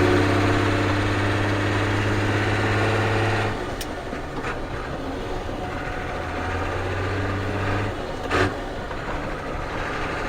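Ford CF7000's 6.6L Brazil diesel engine running steadily, its note falling away about three and a half seconds in and coming back more weakly later. There is a sharp click just after the drop and a louder one near the end.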